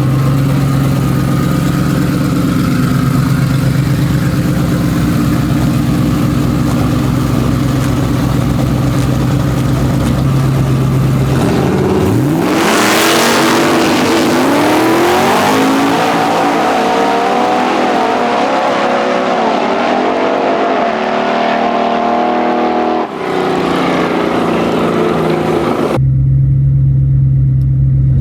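A vehicle engine running steadily, then about twelve seconds in it launches and accelerates hard, its pitch climbing in several steps as it goes through the gears. The sound cuts off abruptly, and the steady engine sound returns near the end.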